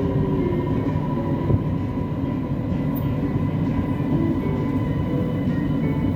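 Siemens Inspiro metro train running, heard from inside the carriage: steady rolling and motor noise with a constant thin whine.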